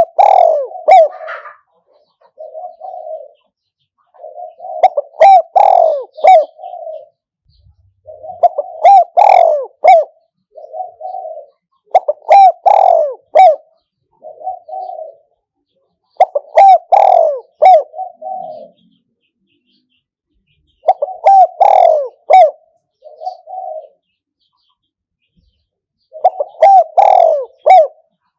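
A spotted dove decoy bird cooing over and over, one phrase about every four seconds. Each phrase is a loud run of coos followed by a softer closing coo.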